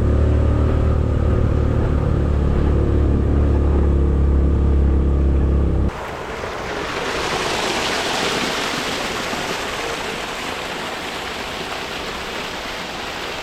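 A steady, low engine-like drone for about six seconds, then an abrupt cut to the even rush of flowing water from a stream or waterfall.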